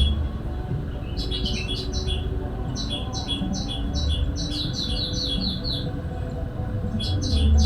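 Bird calls used as a trapping lure, likely prinia song: phrases of rapid, repeated high chirps, a short one about a second in, a long run of about three seconds in the middle, and another starting near the end. A low rumble swells under them now and then.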